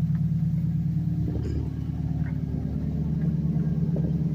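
2009 Subaru WRX's turbocharged flat-four engine idling steadily, heard through an aftermarket Tsudo single-exit catback exhaust as a low, even rumble.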